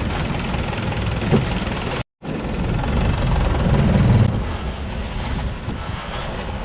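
Longtail boat engine running steadily under way, with an even rushing noise over it. The sound cuts out completely for an instant about two seconds in.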